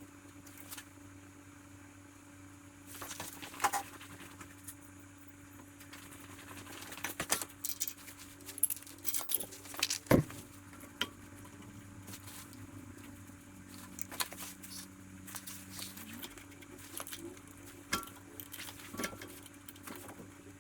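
Scattered metallic clicks and clinks of tools and engine parts being handled, busiest in the middle, over a steady low hum.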